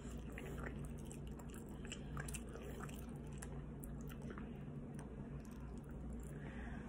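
A person chewing food, with small wet mouth clicks and smacks, then biting into another piece near the end, over a steady low hum.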